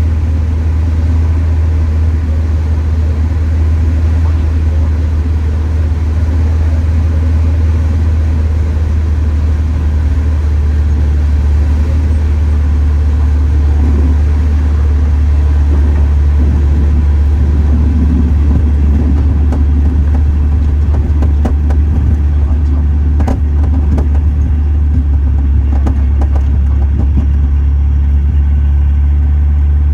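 Light aircraft's engine and propeller droning steadily inside the cockpit as the plane lands. A few short clicks come about three-quarters of the way through.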